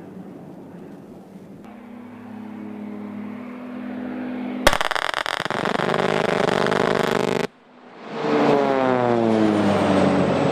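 Military vehicle and aircraft engine noise in several short cuts. About halfway through there is a sharp, loud bang, followed by dense rumbling. Near the end an engine passes by with a falling pitch.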